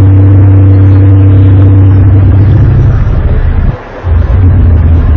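Loud, low, steady droning hum with a few held higher overtones, dropping away briefly just under four seconds in and then coming back: one of the unexplained 'strange sounds in the sky', likened to trumpets.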